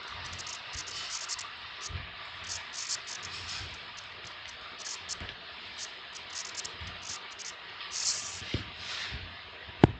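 Short, irregular scratching strokes of a pen or marker writing, over a steady hiss, with one sharp click near the end.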